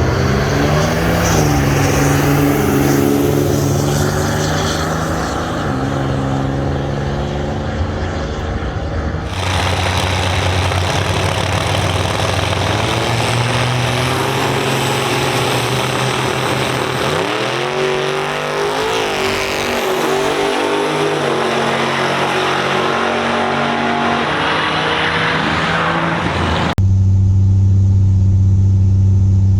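Pickup truck engine accelerating hard down a drag strip, its pitch climbing and dropping back several times as it shifts up through the gears. Partway through, a second run with more upshifts follows, and near the end the sound changes to a steady low drone.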